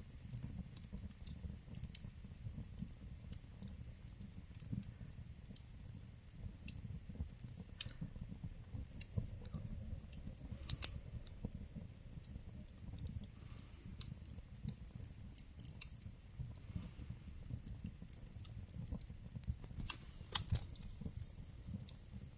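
Wood fire crackling in a fireplace: irregular sharp pops and snaps over a steady low rumble, with the loudest pops about halfway through and near the end.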